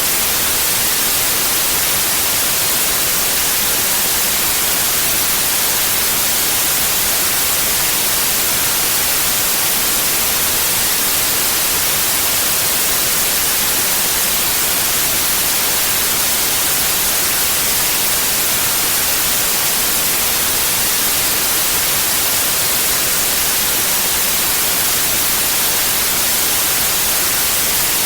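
Steady synthetic white noise: an even, unchanging hiss spread across all pitches, brightest in the treble.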